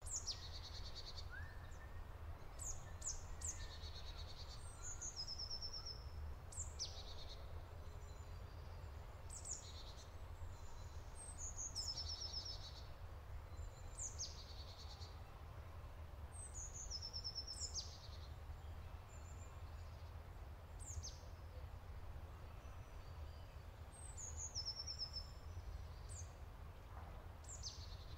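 A bird singing a short, repeated high phrase every two to three seconds: a sharp falling note followed by a quick run of chirps, over a steady low rumble.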